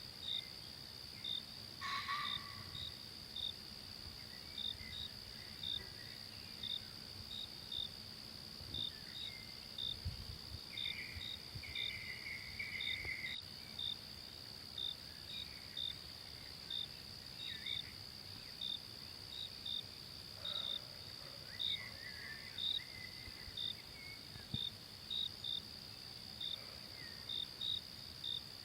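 Forest insects: a steady, high-pitched buzzing drone, with a short cricket-like chirp repeating about one to two times a second. Now and then a brief, fainter call sounds in between.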